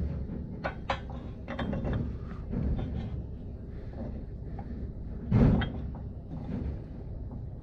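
Metal tools and parts being handled: a run of light clicks and knocks, then one louder knock about five and a half seconds in.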